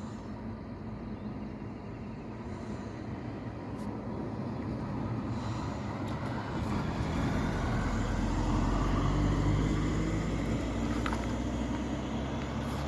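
Express passenger train approaching and running past, a low rumble that builds to its loudest about nine seconds in and then eases off a little.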